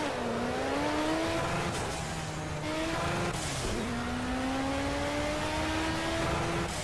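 Mercedes-Benz C63 AMG V8 engine accelerating hard through the gears: the revs climb, fall sharply at each upshift, and climb again, with one long pull in the second half.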